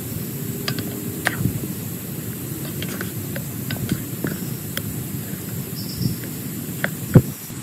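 Heavy rain on a tent: a dense, steady low patter with individual drops ticking sharply on the fabric, and one louder tap near the end.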